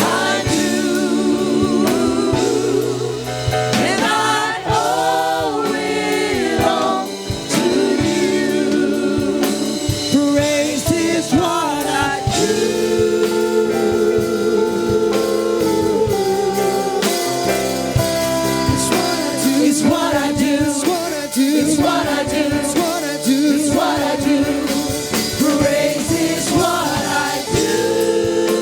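Gospel choir and praise team singing with a live band of drums, keyboard and guitar.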